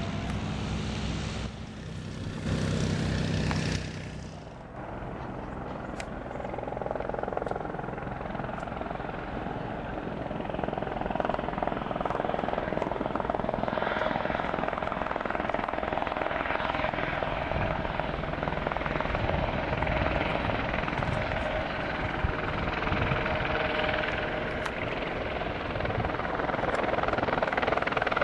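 Helicopter engine and rotor running as a steady mechanical drone. A steady engine hum breaks off abruptly about four and a half seconds in, and the drone then grows gradually louder toward the end.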